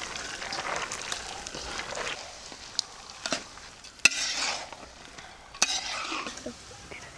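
Spiced goat head meat and chana dal sizzling as a spatula stirs and scrapes them around an aluminium wok, with a few sharp knocks of the spatula against the pan. This is the frying-down (koshano) of the curry before water is added.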